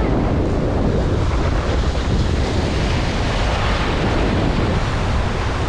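Strong wind buffeting the microphone, a steady low rumble, over the wash of surf.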